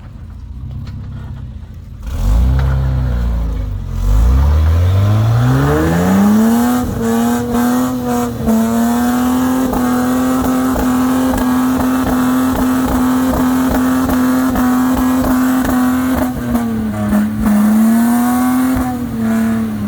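A four-wheel drive's engine revving hard on a steep climb. It rises over a few seconds to a high, steady rev and holds there, dips once briefly near the end, then drops away.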